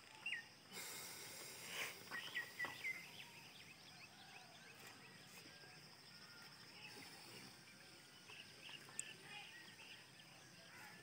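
Faint bird chirps scattered over quiet outdoor background noise, with a soft rush of hiss about a second in that fades after a couple of seconds.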